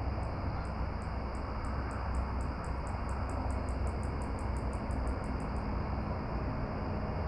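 Steady rushing outdoor background noise, heaviest in the low range, with a run of short, very high ticks that quicken from about two to about five a second and stop about two-thirds of the way through.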